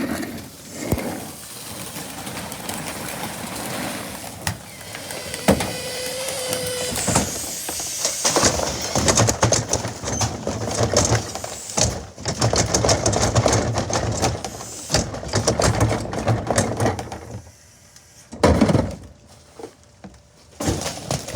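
Electric garbage truck at work collecting a trash can: mechanical hum with repeated clattering and knocking, a brief steady whine about six seconds in, and a sharp burst of noise after a quieter stretch near the end.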